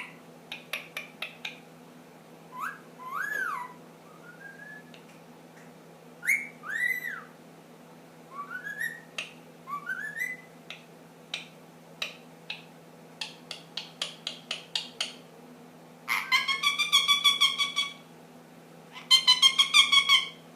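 Ringneck parakeet whistling short notes that rise and fall, between runs of quick clicks, then two rapid buzzy chattering trills of about two seconds each near the end.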